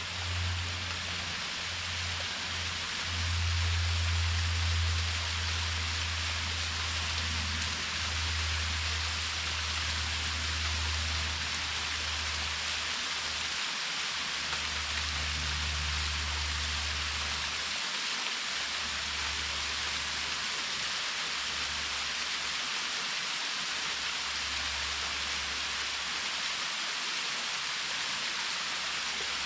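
Waterfall's falling and splashing water: a steady hiss, with a low rumble underneath that comes and goes.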